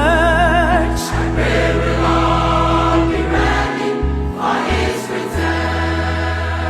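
Gospel choir singing with vibrato over a steady instrumental accompaniment.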